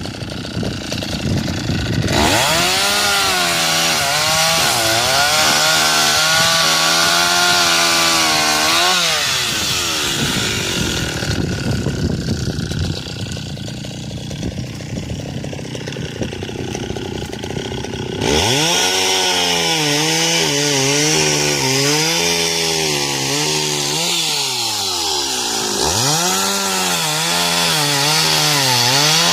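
Dolmar 111 two-stroke chainsaw cutting firewood logs, its engine note sagging and recovering over and over as the chain bites into the wood. Near the end the revs fall away once and then climb again.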